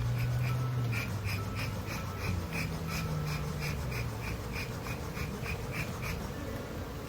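Honeybees buzzing close by, a low hum that shifts up and down in pitch as they fly around, stirred up while being cleared off the top of an open hive. A short high chirp repeats about three times a second and stops about six seconds in.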